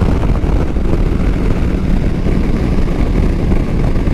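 Motorcycle cruising on the highway: a steady rush of wind on the microphone over the engine's drone.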